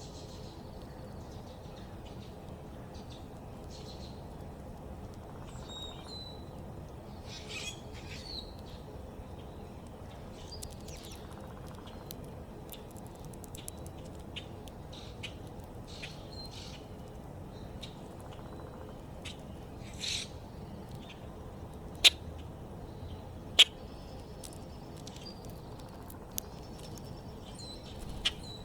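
Small backyard birds chirping and calling on and off over a steady low background rumble, with two sharp, loud clicks about a second and a half apart past the middle.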